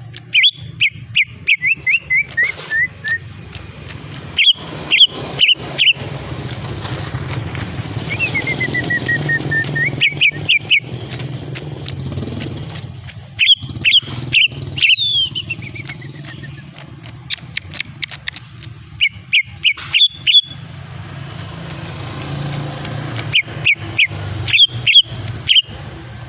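Cucak ijo (green leafbird) song: phrases of quick, sharp, high whistled notes, some running down in pitch or swooping down and back up, repeated about half a dozen times with short pauses between. A steady low hum runs underneath.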